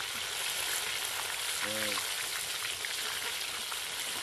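Batter-coated chicken pieces deep-frying in hot oil in a pan: a steady sizzle with small crackles. A brief pitched sound comes just under two seconds in.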